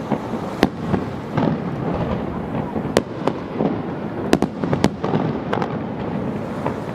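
Fireworks going off: a continuous crackle and rumble of shells bursting, with sharp bangs at irregular intervals, several close together about four to five and a half seconds in.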